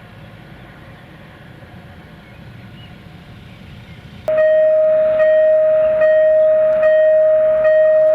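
Railway level-crossing warning bell starting suddenly about four seconds in and ringing loudly and steadily, with a fresh strike about every 0.8 s, warning of an approaching train. Before it there is only a low background hum.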